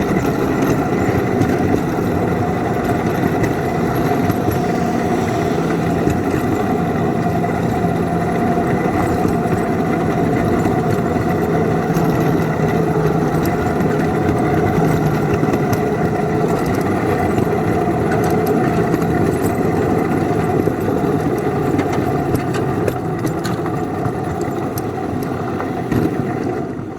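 Engine of a small railroad locomotive running steadily as it pushes a snow plow with its wings out along the track, easing off near the end.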